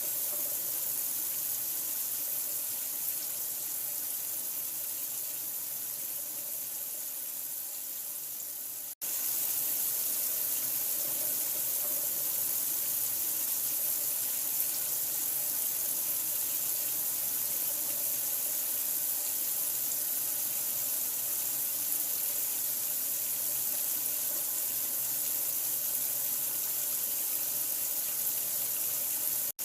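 Steady running water, a continuous rushing hiss heaviest in the high end, used as sleep noise. About nine seconds in it drops out for an instant and picks straight back up.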